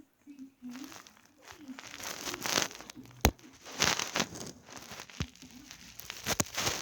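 Plastic packaging crinkling and rustling in irregular bursts as it is handled, with a sharp click about three seconds in.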